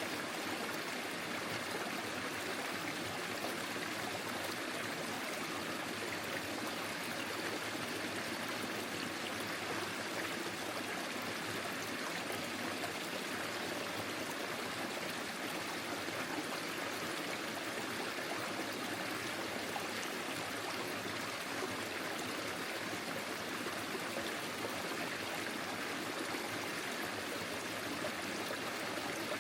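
Forest stream flowing over stones, a steady rush of water with light trickling.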